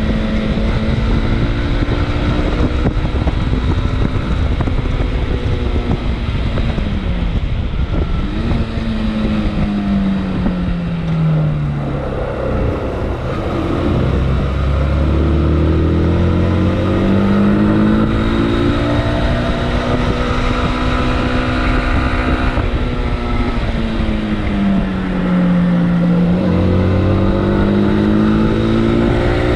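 Motorcycle engine heard while riding, with wind rushing on the microphone. The engine note drops as the bike slows about a third of the way in, climbs again, dips once more a little past the middle, then rises again near the end.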